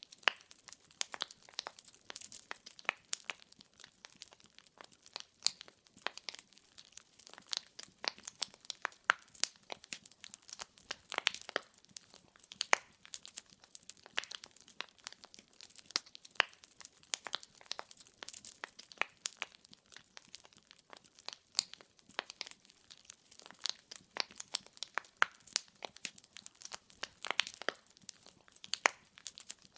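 Wood fire in a fireplace, logs crackling with many irregular sharp pops and snaps over a faint hiss.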